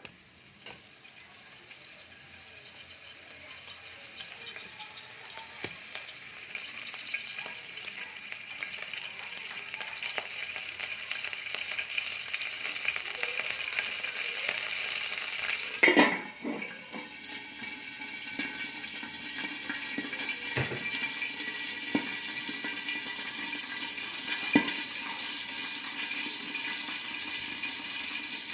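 Chicken frying in oil, a steady sizzle that grows gradually louder as the oil heats. There are scattered light clicks and a louder clatter about 16 seconds in.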